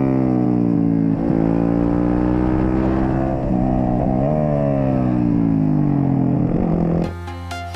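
Onboard sound of a Yamaha sport bike's engine at race pace, its pitch falling as it slows into corners and climbing again under throttle, with several quick dips and jumps as it changes gear. About seven seconds in it cuts off abruptly to electronic music with a steady beat.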